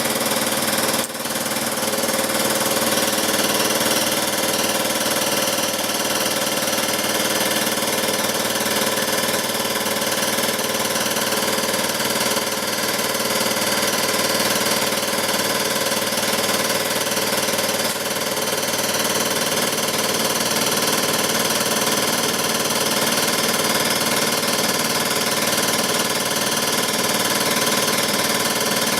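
Power grinder running steadily, grinding a weld smooth on a steel ATV swing arm, with a brief dip in level about a second in.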